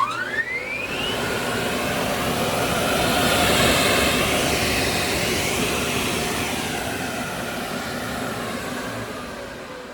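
Spencer 75 HP multistage centrifugal turbo blower, driven by a 3,500 RPM three-phase electric motor, starting up: a whine rises quickly in pitch during the first second as it spins up. It then settles into a steady rushing of air with a faint hum. The sound grows louder for a few seconds and then slowly eases off.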